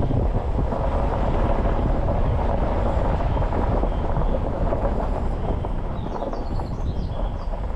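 Jeep Wrangler driving along a rough unpaved forest road: a steady rumble of engine and tyres on the dirt surface.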